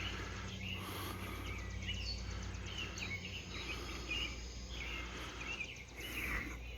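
Outdoor ambience: a small bird chirping over and over, short high notes about every second, above a steady low hum.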